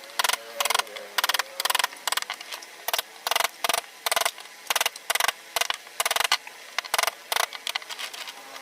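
Hand tool working wood in quick, irregular short strokes, about two to three a second.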